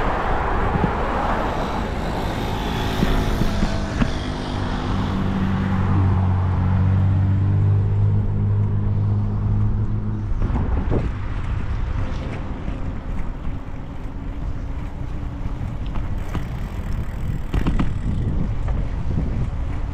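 Wind rushing over the microphone while cycling along a road, with a motor vehicle's engine humming close by from about four seconds in until it cuts off near the halfway point.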